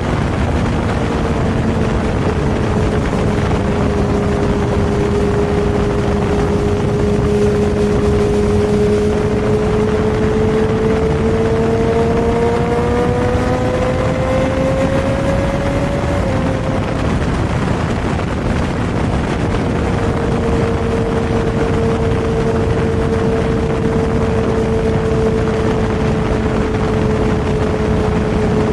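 Superbike engine running at a steady cruise, with wind and road noise. About a third of the way in, the engine note climbs gradually for several seconds. It then drops away briefly before settling back to a steady cruise.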